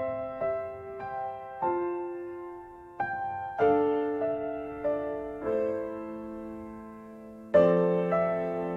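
Solo piano playing slow chords, each struck and left to fade before the next.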